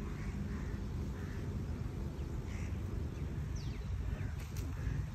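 Several short bird calls, a second or so apart, with a quick falling whistle about three and a half seconds in, over a steady low rumble.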